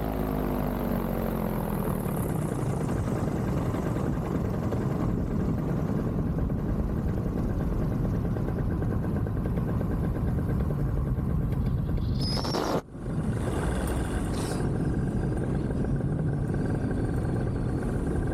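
Vittorazi Moster 185 single-cylinder two-stroke paramotor engine in flight. Its pitch falls away at the start after a brief throttle blip given to keep the idling engine from loading up and quitting, then it runs at idle under steady wind rush. The sound drops out briefly about thirteen seconds in.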